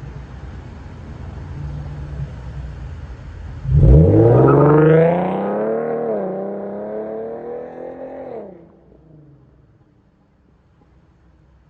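Muffler-deleted Infiniti Q50's VQ37VHR 3.7-litre V6 exhaust under hard acceleration on a flyby. A low rumble gives way about four seconds in to a loud, rising rev that dips briefly at a shift, climbs again and drops away near the end.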